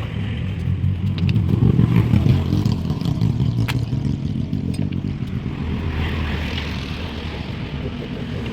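An engine running steadily, swelling to its loudest about two seconds in and easing off later, with a few light clicks over it.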